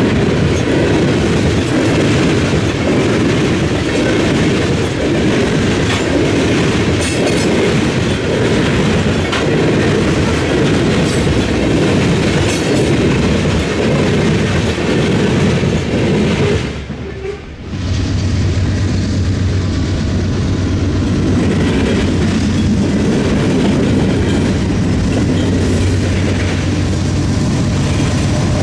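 Freight train rolling past, its wheels clattering over the rail crossing of a railroad diamond. The rolling noise is loud and continuous. About two-thirds of the way through it drops away for a moment, then resumes with a steady low hum underneath.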